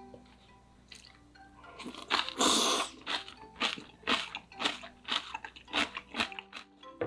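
Close-miked eating of spicy ramen: a loud noisy slurp of noodles lasting about a second, starting about two seconds in, then rhythmic chewing at about two bites a second, over faint background music.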